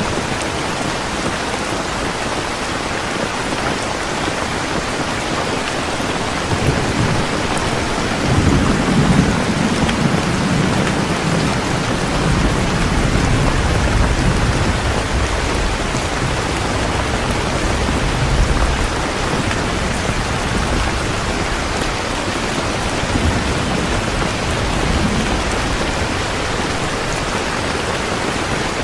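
Heavy rain falling steadily, with a long roll of thunder that builds about six seconds in, is strongest for several seconds, and dies away after about twenty seconds.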